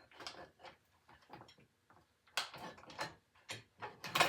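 Small metal drivetrain parts, a thrust washer among them, clicking and clinking as they are handled and set into a mower's differential case. The taps are irregular: a few faint ones at first, then a busier, louder run in the second half.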